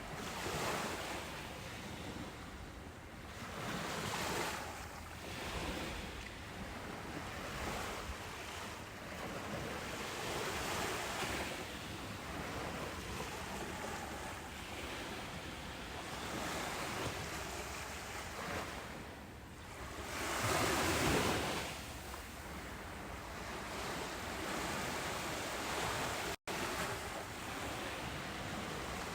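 Ocean waves breaking on a beach: a steady rush of surf that swells and ebbs every few seconds, with one louder wave about two-thirds of the way through. A split-second gap in the sound comes near the end.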